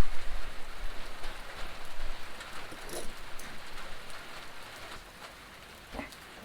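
Rain pattering on a tin roof as a steady hiss, with the tail of a sharp knock dying away at the start and a couple of faint knocks later.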